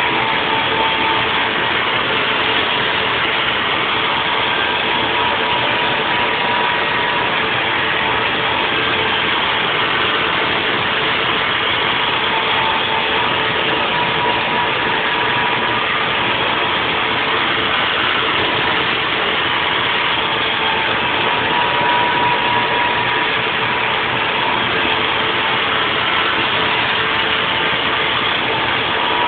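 Haas VF4 CNC vertical mill running a 3D machining pass: a steady machine noise with a constant high whine that stays even throughout.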